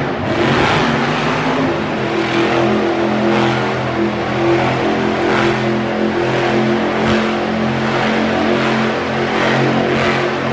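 Monster truck engine running loud at a held, steady pitch, with the level swelling and easing.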